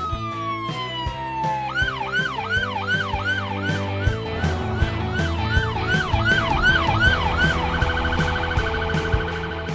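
Police car siren over background music with a steady beat. It starts with a falling wail, then switches to a yelp that cycles about two and a half times a second, and changes to a rapid warble near the end.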